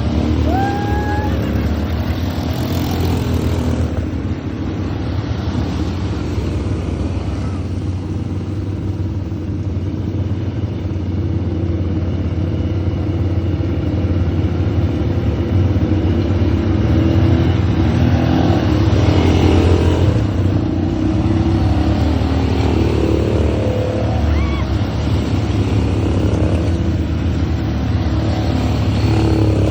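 ATV engine running steadily as the quad is ridden, a continuous low rumble that swells slightly about two-thirds of the way through.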